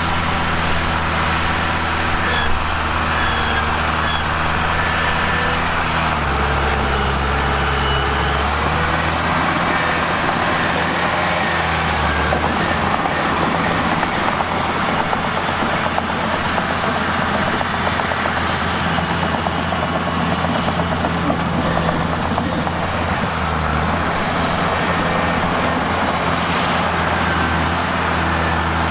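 Mitsubishi bulldozer's diesel engine running steadily under a broad rattling noise, its note shifting lower about six seconds in and again around twelve seconds.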